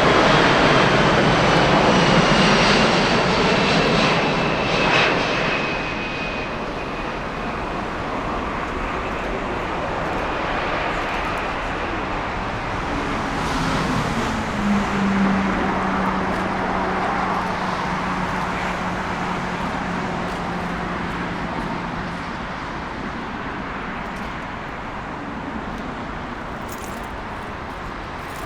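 Jet airliner passing and moving away: loud engine noise at first with high whines gliding down in pitch, then a lower hum, the whole sound slowly fading.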